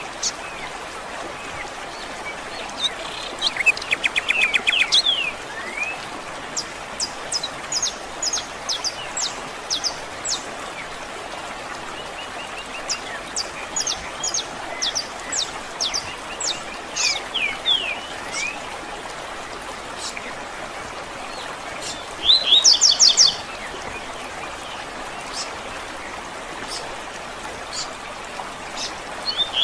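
Several songbirds chirping and calling, with quick trills twice, over a faint steady background hiss such as running water.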